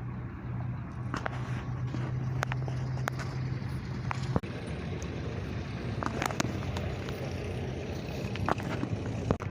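An engine running steadily with a low hum that weakens about four seconds in, with scattered clicks and knocks over it.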